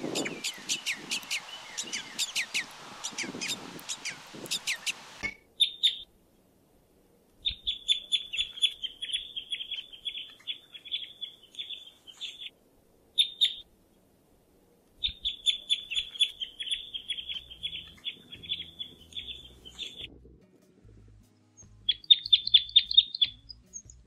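Birds chirping: a dense chorus of overlapping chirps cuts off abruptly about five seconds in. After that a bird sings rapid high trills, repeated in phrases of a few seconds with short silences between.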